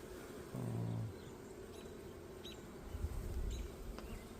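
Honeybees humming around an open hive, with a few short, high bird chirps. In the second half, wind rumbles on the microphone.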